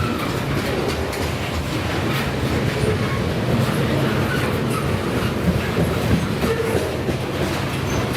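BNSF freight train cars rolling steadily past, with wheels clicking over the rails and a few brief, faint wheel squeals.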